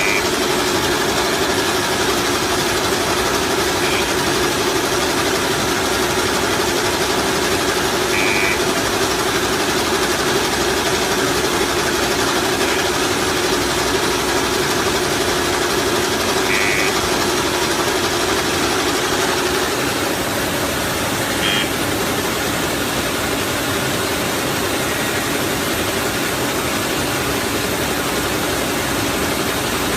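Automatic plastic-straw packaging machine running steadily with a continuous mechanical hum, its tone shifting slightly about two-thirds of the way through, and a few brief high chirps every several seconds.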